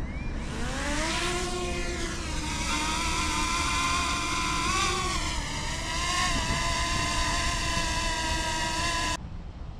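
Quadcopter drone's motors and propellers whining, rising in pitch as it spins up and lifts off, then holding a steady pitch that wavers slightly. It cuts off suddenly near the end.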